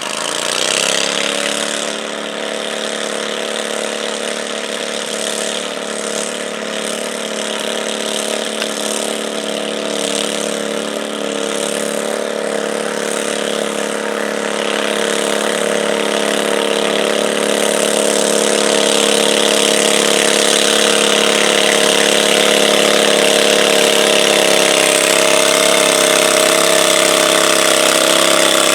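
A stock garden tractor's engine revs up sharply about a second in, then runs at a steady speed, growing gradually louder.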